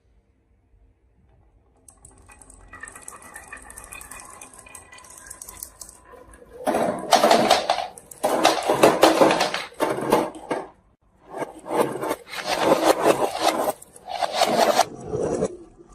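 Marbles rolling and clattering down a marble run: a faint rolling rattle starts a couple of seconds in, then several loud stretches of rapid clattering follow, each a second or two long with short pauses between.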